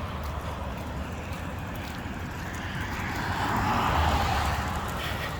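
A car passing on the road: its tyre and engine noise swells, peaks about four seconds in, then fades as it goes by.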